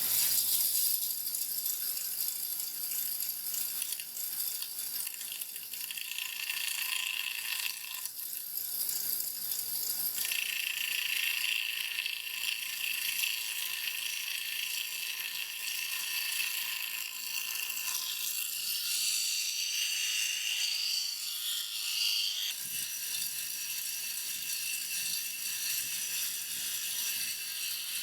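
Homemade bench grinder running, its wheel driven through a bicycle chain and sprocket, giving a steady mechanical rattle under a hissing, high-pitched noise whose pitch shifts several times as the load or speed changes.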